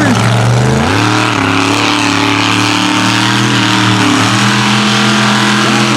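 Mega truck's engine running loud and steady. It steps up in pitch about a second in and dips briefly a little after four seconds.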